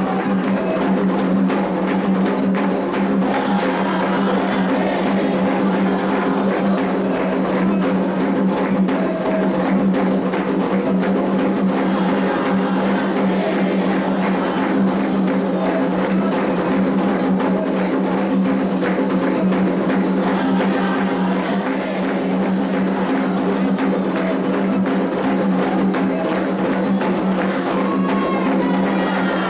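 Candomblé atabaque drums playing the continuous, densely struck rhythm of a rum for the orixá Iansã.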